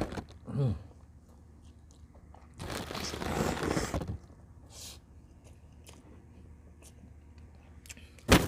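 A person chewing and biting into camel bulalo close to the microphone, in wet, crunchy mouthfuls, with a longer stretch of eating noise about three seconds in. A sharp click comes near the end.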